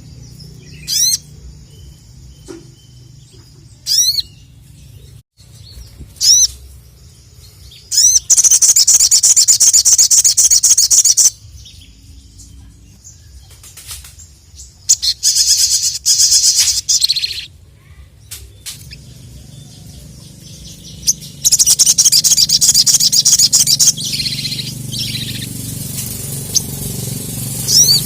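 A sogon (sogok ontong) songbird singing: sharp high chirps every couple of seconds, then three loud bursts of rapid, dense twittering, each about three seconds long.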